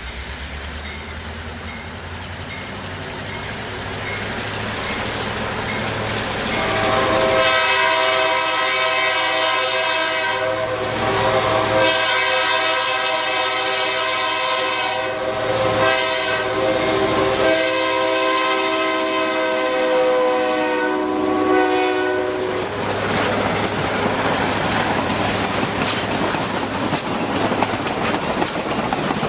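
Diesel locomotive of a passenger train approaching, growing louder, then sounding its multi-note air horn in a long, long, short, long pattern, the grade-crossing signal. The horn stops about 22 seconds in and the train passes close by with loud wheel and rail noise.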